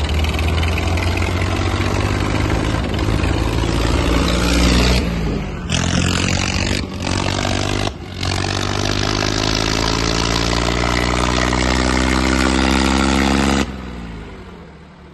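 Diesel tractor engine running hard under full load in a tractor tug-of-war. Its note climbs steadily through the second half, then cuts off sharply near the end.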